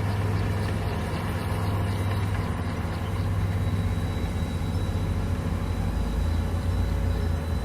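Komatsu bulldozer's diesel engine running steadily under work, its low drone easing slightly lower in pitch about six seconds in.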